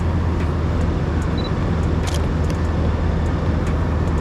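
Steady low rumble of idling vehicle engines, with a few faint scattered ticks.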